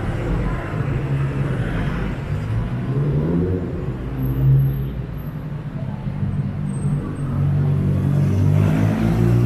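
Car engines running in close street traffic, with one engine rising in pitch as it revs about three seconds in.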